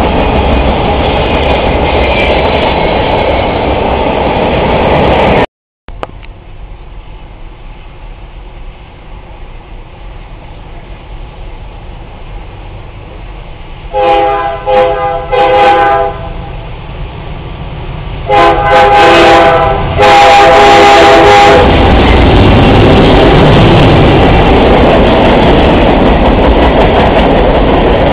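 Freight train rumbling by loudly, cut off abruptly a few seconds in. Then a locomotive horn sounds three short blasts and two long ones as another freight train comes up, followed by the loud rumble of the locomotive and cars passing.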